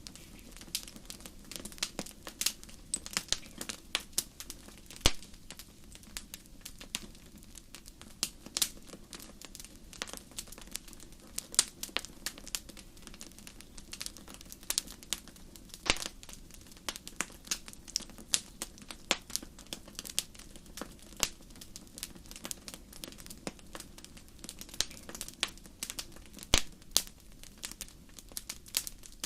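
Wood fire crackling in a fireplace: a steady stream of sharp, irregular pops and snaps of varying loudness over a soft low hiss.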